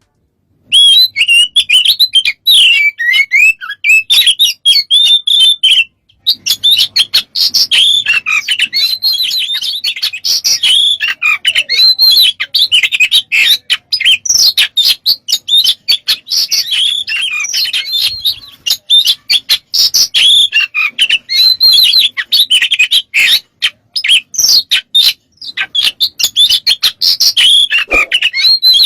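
Oriental magpie-robin (kacer) singing a loud, fast, unbroken stream of chirps, whistles and trills, its song packed with mimicked phrases of other birds, with a brief pause about six seconds in.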